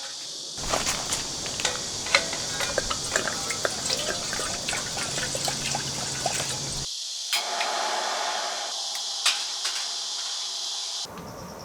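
Rain falling steadily, with many small drops pattering and dripping. The sound changes abruptly twice partway through.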